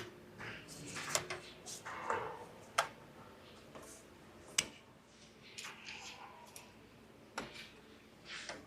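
Scattered sharp clicks and light clattering of hand tools and parts being handled while harness connectors are removed, with about four louder clicks spread through.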